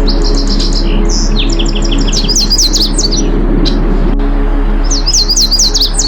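A songbird singing in two bouts of rapid high repeated notes and quick sweeping whistles, over a steady low drone.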